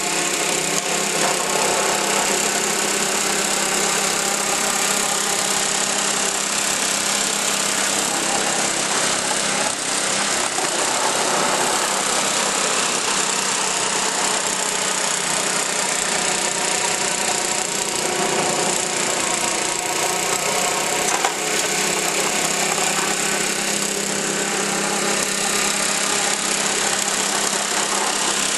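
Craftsman snow blower's small gasoline engine running steadily after a cold start, with one brief click about 21 seconds in.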